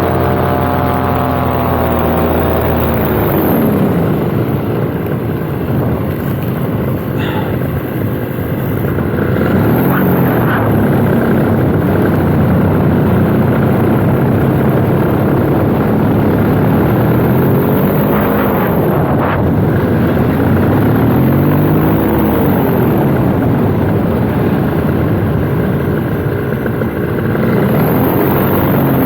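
Paramotor engine and propeller running in flight, with the engine note falling and rising several times as the throttle is eased back and opened again: a drop about four seconds in, a climb around ten seconds, further dips a little past the middle, and a rise near the end.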